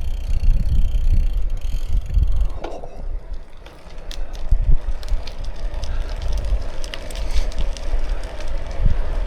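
Riding a bicycle: wind buffets the microphone as a gusty low rumble that eases briefly a few seconds in, under the hiss of the tyres rolling, with scattered small ticks and crackles from the wheels and road surface.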